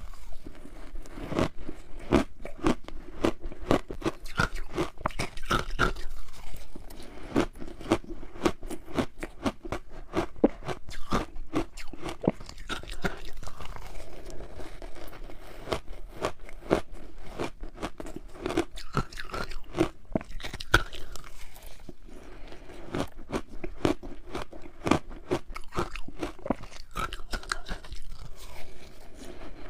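A frozen matcha ice ball being bitten and chewed: a dense run of crisp crunches and cracks, several a second.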